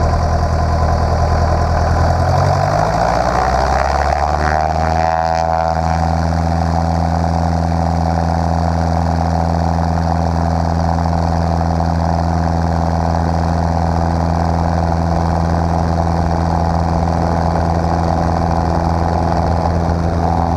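Cessna 150's four-cylinder piston engine and propeller running up: the pitch rises over a few seconds as the throttle is opened, then holds steady at high power.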